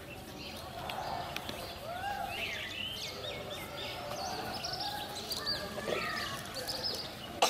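Birds chirping and calling, with a quick run of short, high repeated chirps a few seconds in. A sharp click sounds right at the end.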